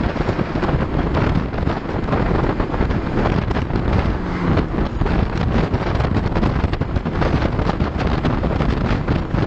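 Wind buffeting the microphone over motor scooter and road noise, a steady, dense rush with no clear engine tone.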